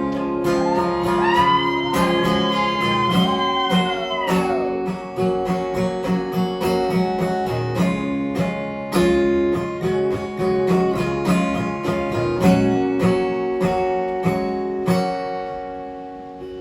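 Instrumental break in a live song: guitars strumming steady chords, with a lead guitar playing sliding, bending notes in the first few seconds. It grows a little quieter near the end.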